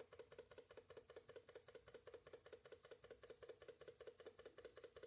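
Graham Industries VR1A model live steam engine running slowly and steadily on low steam pressure, its exhaust beating in a quick, even rhythm. The faint, regular beat is the sign of a newly built, freshly broken-in engine turning smoothly.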